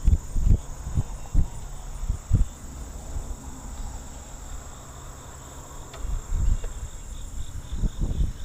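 A steady, high insect chorus with faint regular pulsing runs throughout. Irregular low rumbles of wind buffeting the microphone come and go and are the loudest sound, easing off in the middle and returning near the end.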